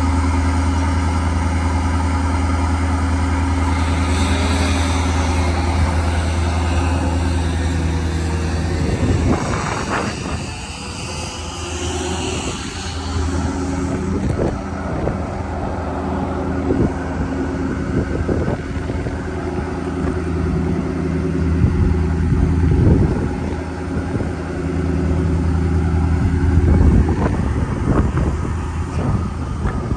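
Ford 6.7L Power Stroke V8 diesel running steadily, with scattered knocks and clunks from about nine seconds in as the running sound drops lower.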